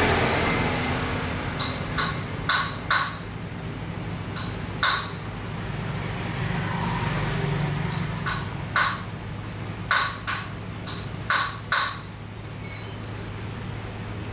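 About a dozen sharp, irregular taps over a steady low hum.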